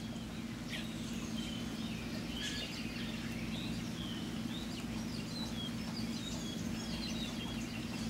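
Birds chirping, many short high calls, over a steady low hum.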